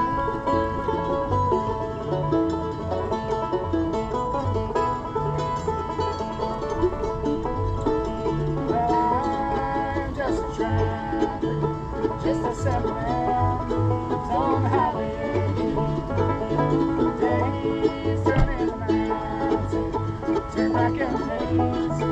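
Acoustic bluegrass band playing at a steady tempo, with banjo picking to the fore over guitar.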